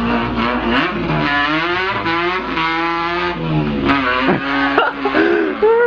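A man imitating a car engine revving with his voice: one buzzing pitch that climbs and drops as if working through the gears, breaking into shorter bursts near the end.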